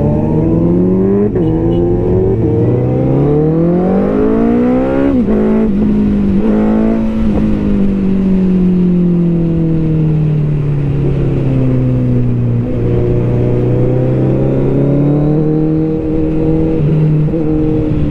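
Several loud superbike engines running and revving together as the bikes ride off. The engine pitch climbs for a few seconds, drops sharply about five seconds in, then sinks slowly and rises again.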